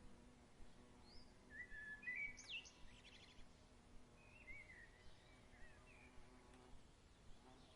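Faint songbirds chirping: short phrases about a second in and again around five seconds, with a quick trill near three seconds, over a soft steady outdoor hush with a faint low hum.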